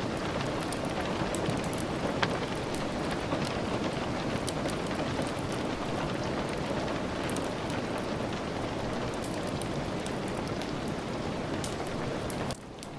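Steady heavy rain, an even hiss with scattered sharp ticks and crackles. Near the end the sound drops abruptly, then slowly builds back up.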